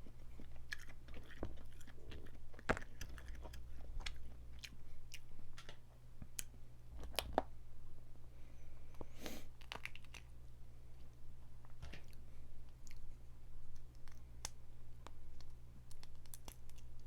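Close-miked eating of a Cajun seafood boil: wet chewing, lip smacks and crackling clicks of crawfish shells being cracked and picked, irregular throughout, over a steady low electrical hum.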